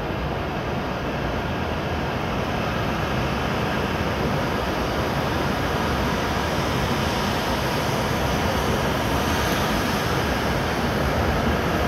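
E7-series Shinkansen train pulling out of the station, a steady rumble of its wheels and running gear that grows slowly louder.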